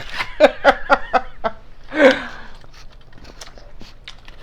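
A woman laughing in a quick run of short pulses, about four a second, with one more burst about two seconds in; after that, only a few faint clicks.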